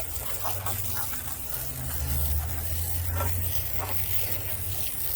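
Tru-Cut sawmill running and cutting through a dry elm log: a steady low hum with an even hiss over it.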